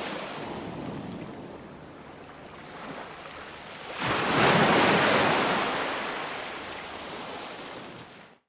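Ocean surf: waves washing in, with one wave breaking suddenly about four seconds in, the loudest moment, then fading as it runs out. The sound cuts off abruptly to silence near the end.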